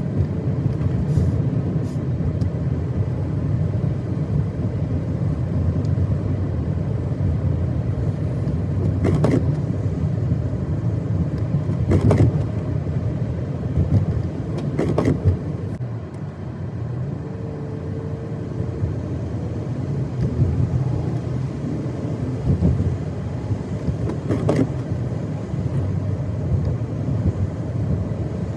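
Car driving on a snow-covered road: steady low rumble of tyres and engine, with four brief knocks scattered through.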